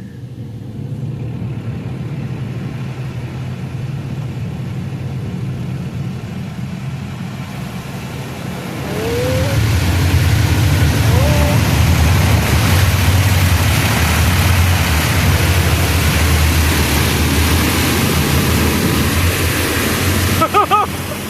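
An automatic truck wash working over the vehicle, heard from inside the cab: the truck's engine idles, and about eight seconds in a loud rushing spray of water jets starts hitting the body and runs on, with a few short squeaks.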